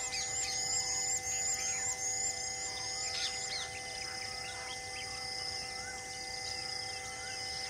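Birds calling in repeated short, high chirps, several a second, over a steady hum of held tones.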